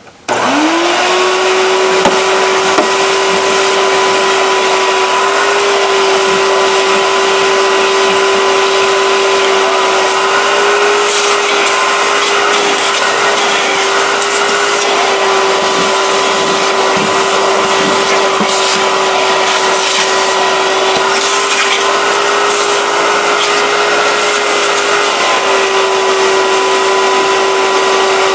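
Oreck XL upright vacuum cleaner switched on: its motor spins up in a quick rising whine, then runs with a steady, even whine and rushing air.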